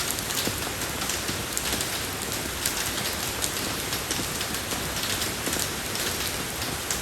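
Steady rain falling on a road surface: a constant hiss with many fine individual drop splashes and no pauses.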